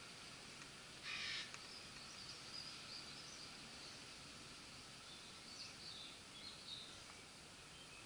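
Quiet garden ambience with a steady hiss and faint, thin bird calls. A brief harsh noise comes about a second in.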